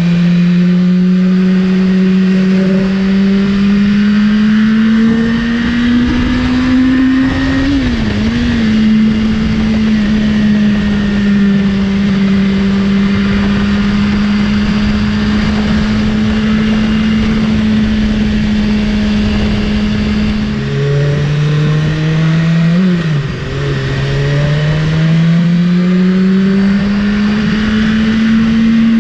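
BMW S1000RR sport bike's inline-four engine running loud at cruising revs, its pitch climbing slowly, holding steady for long stretches, and dipping briefly twice as the throttle changes.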